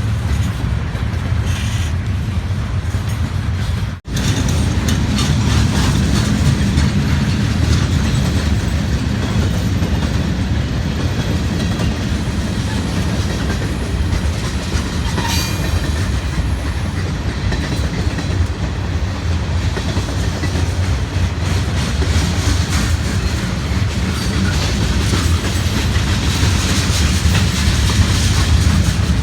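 Freight train rolling past: a steady, loud rumble of wheels on rail with the clickety-clack of cars passing over rail joints. The sound cuts out for an instant about four seconds in.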